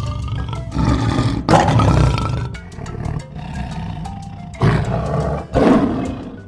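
A big cat roaring several times, in loud, rough blasts, over background music.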